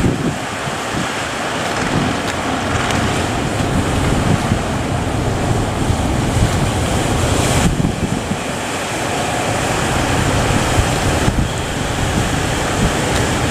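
Heavy surf breaking at a river mouth, with strong wind buffeting the microphone.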